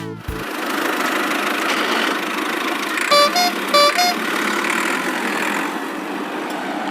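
Cartoon vehicle sound effect: a steady engine running, with a short two-note horn beeping twice about three seconds in.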